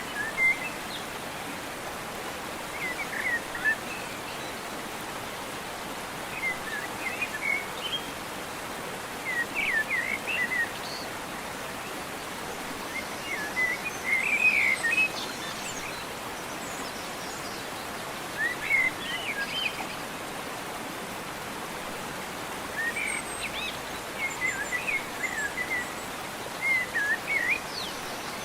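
Songbird singing in short chirping phrases every few seconds, over a steady background hiss of outdoor ambience.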